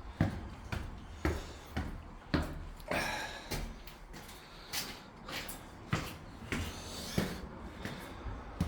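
Footsteps climbing a flight of stairs, about two steps a second, with gritty scuffs between the footfalls.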